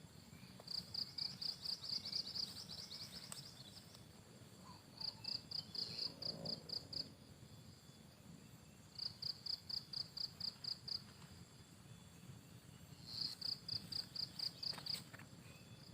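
High-pitched chirping in trains of about eight quick pulses. Each train lasts a second or two and comes four times, roughly every four seconds, over faint outdoor background noise.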